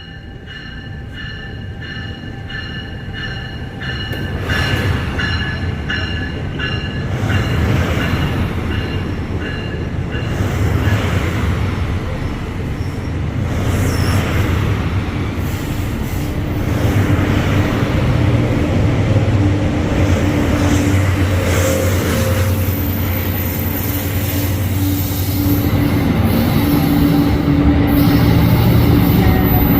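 NJ Transit passenger train approaching and passing, growing steadily louder, with the wheels squealing on the rails. A ringing bell repeats about twice a second through the first several seconds, then is drowned out by the train.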